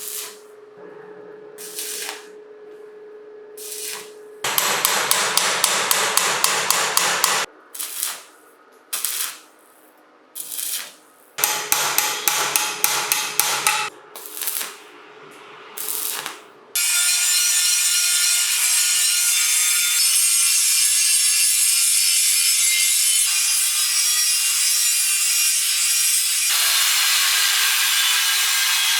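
Quick, even scraping strokes of hand work on a workpiece, about four a second, in two runs. Then, from about halfway in, a steady, loud hiss of a powered tool working.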